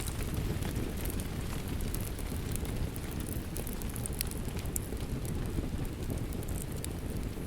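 Steady rain with a dense low rumble, mixed with the scattered sharp snaps and crackles of a wood fire.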